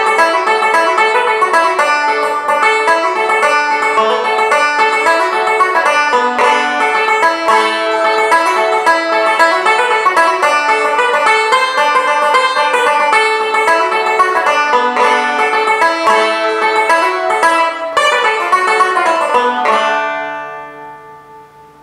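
Weymann Style No.2 tenor banjo played solo: a quick, continuous run of picked notes and chords. Near the end it stops on a final chord that rings out and dies away.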